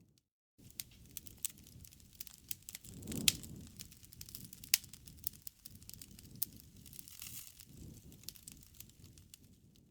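Bonfire crackling, with many sharp pops and snaps over a low rumble of flame that swells briefly about three seconds in. The sound drops out completely for half a second at the start.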